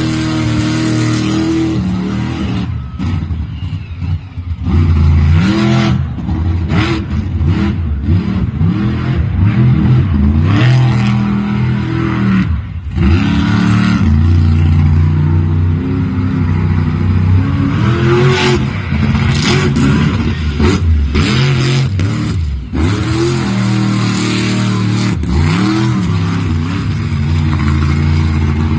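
Monster truck engine revving hard over and over, its pitch repeatedly climbing and falling as the throttle is worked, with a few brief drops where the engine note dips.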